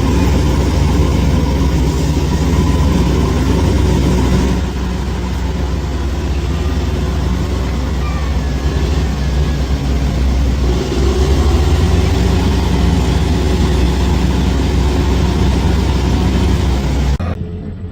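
Bulldozer's heavy diesel engine running steadily. Its level dips slightly about four and a half seconds in, comes back up near eleven seconds, and cuts off suddenly shortly before the end.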